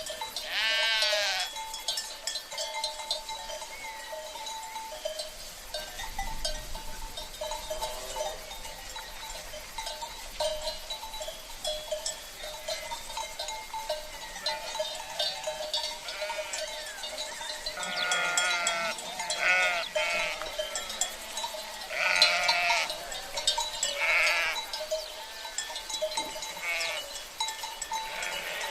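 Sheep bleating several times, with calls about a second in and a cluster between about 18 and 24 seconds, over the steady clinking of cowbells worn by the flock.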